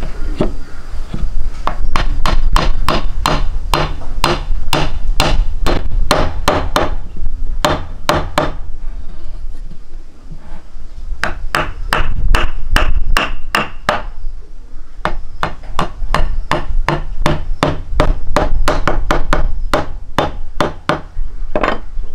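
A series of sharp knocks, like blows struck in a steady rhythm of about three a second. They come in runs of several seconds with short breaks, over a steady low rumble.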